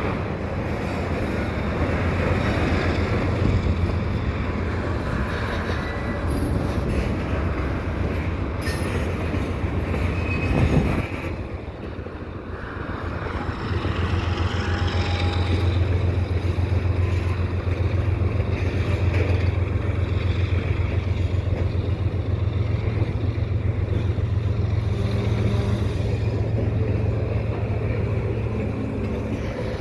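GE ES44AC diesel locomotive working hard under load as a distributed-power unit shoving double-stack intermodal cars, a steady low engine rumble. The rumble eases briefly about 11 seconds in, then comes back up.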